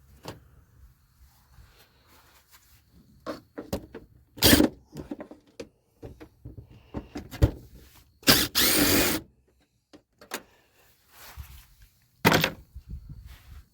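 Hand tools working a bolt loose on an old Chevrolet pickup's engine: scattered metal clanks and knocks of socket, extension and wrench. There is a loud rough burst about a second long a little past halfway.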